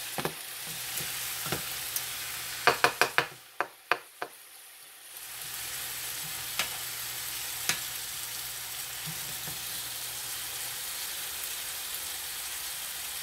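Diced chicken thighs and onions sizzling in a frying pan, stirred with a wooden spatula. A quick run of sharp knocks comes about three seconds in, then the sizzle dips briefly and returns steady.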